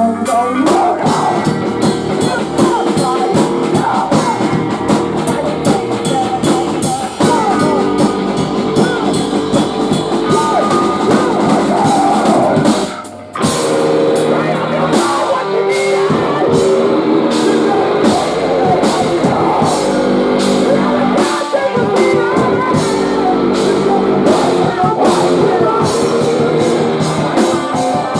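Post-hardcore band playing live: distorted guitars, a drum kit and vocals. About halfway through, the band stops for a moment before coming back in.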